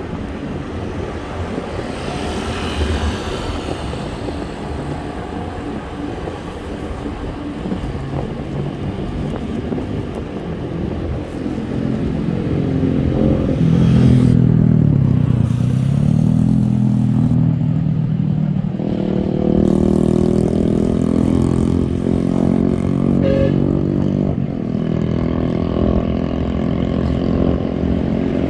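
Motorbike engine running amid wind and road noise, its pitch dropping and then rising again about halfway through as it changes speed.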